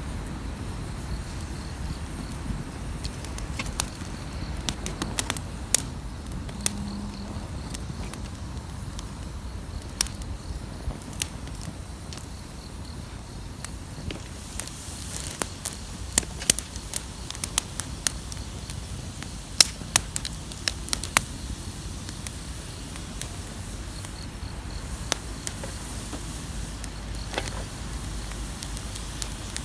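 Wood campfire crackling with sharp, irregular pops that come thickest a little past halfway, over a low steady rumble.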